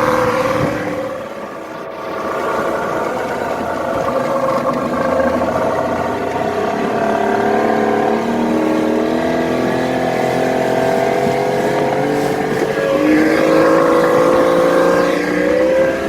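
1973 Mercury 650 65 hp outboard running now that its ignition has spark again. The engine speed rises and falls, dipping about a second in, climbing through the middle, dropping again about two-thirds through and then picking back up.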